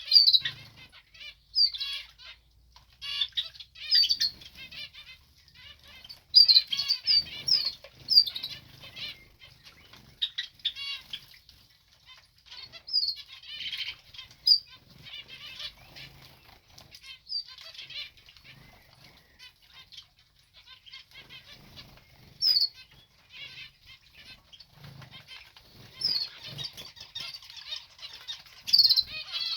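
Small aviary birds bathing: repeated quick fluttering and splashing of wings in bath water, in irregular flurries, with short high chirps between them.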